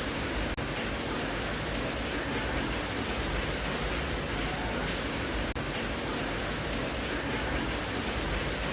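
Steady rain hiss, an even wash of noise with no other events, broken by two very brief dropouts: about half a second in and again about five and a half seconds in.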